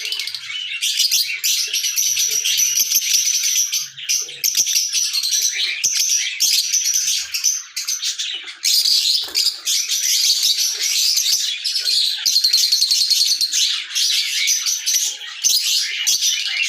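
Lovebirds chattering: a near-continuous stream of high, rapid chirps and twitters with only brief pauses.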